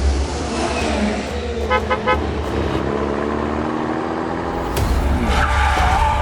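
A motor vehicle running with a low rumble, with a few short horn toots about two seconds in.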